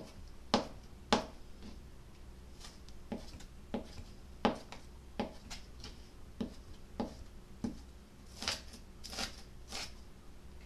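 Irregular sharp clicks and short scraping snips from hand work at close range, about one or two a second, with a few hissier scrapes near the end.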